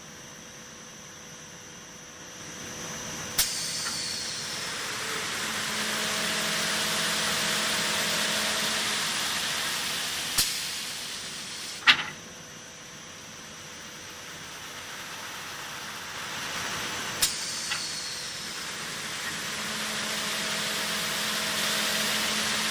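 BSS-10 baluster sanding machine running with a steady hum; twice, after a sharp click, a hiss of sanding swells up and holds for several seconds. Sharp clicks also come about 10 and 12 seconds in, the one at 12 seconds the loudest.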